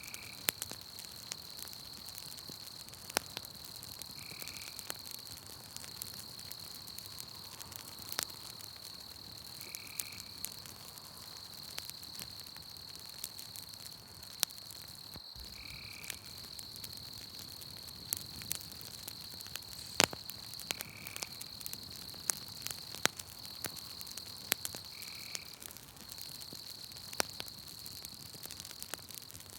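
Campfire crackling with frequent sharp pops, over a steady high insect trill, and a short call repeating about every five seconds.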